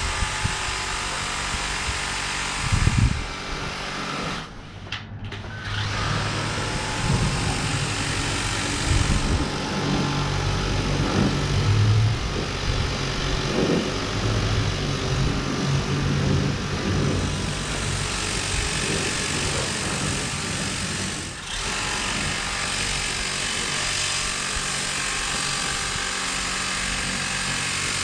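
Kobalt 600 psi battery-powered pressure sprayer running, its pump humming steadily under the hiss of the water jet. The spray cuts out briefly twice, once about five seconds in and again near the end, as the trigger is let go.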